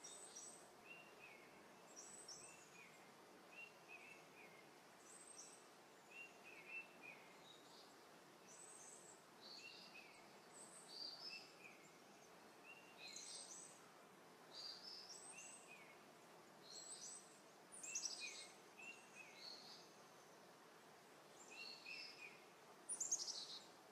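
Faint birdsong: short chirps and quick falling notes repeated every second or two over a steady hiss, with a louder run of chirps near the end.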